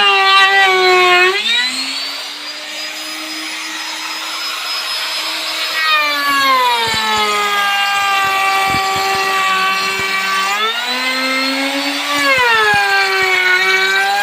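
Electric drill motor running with a loud whine, its pitch dropping and rising again several times, with a few short knocks.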